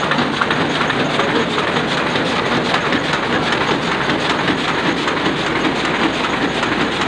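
Sakurai Oliver 66 offset printing press running, a steady, dense mechanical clatter.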